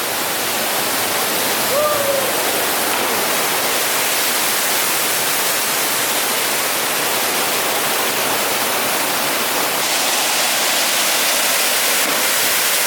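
Waterfall pouring into a plunge pool: a steady, really loud rush of falling water. A short voice-like call rises and falls once about two seconds in.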